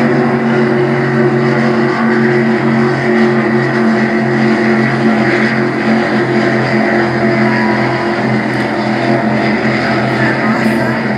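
Racing powerboat engines running at speed: a steady, loud drone with several even pitched tones, the tones blurring a little about halfway through.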